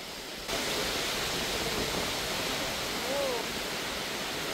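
Steady rushing noise that steps up sharply about half a second in, with a faint short gliding tone around three seconds in.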